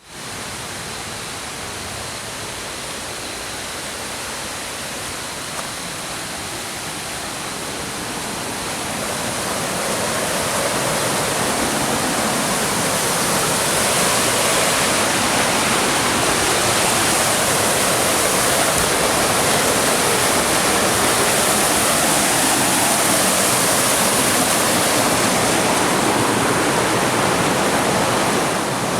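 Rushing stream water, a steady noise that grows louder through the first half and then holds level.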